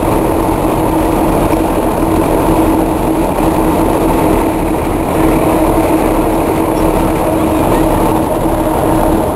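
A train running, heard from aboard: a steady engine drone with a constant hum over the rumble of the running gear.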